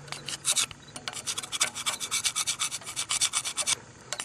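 Fast back-and-forth scraping strokes on the cast-iron block of a 350 small-block Chevy engine, several a second, pausing briefly near the end and then starting again. This is typical of scrubbing the stamping pad clean to read the engine's code.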